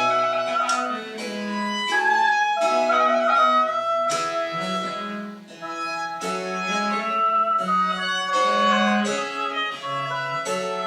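Baroque chamber ensemble of wind and string instruments playing French Baroque music, with violin-like bowed lines over sustained lower notes and a brief lull about five seconds in.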